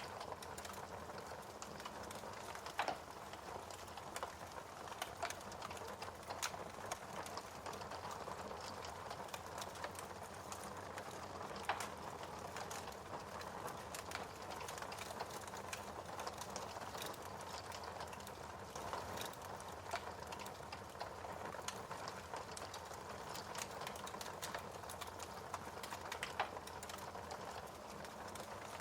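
Wood fire burning in a fireplace: a steady hiss with irregular crackles and pops, a few sharper pops standing out.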